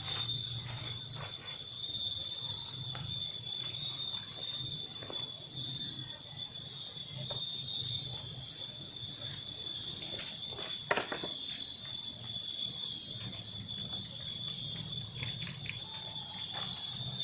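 Steady high-pitched drone of forest insects, with scattered faint clicks and one sharp knock about eleven seconds in.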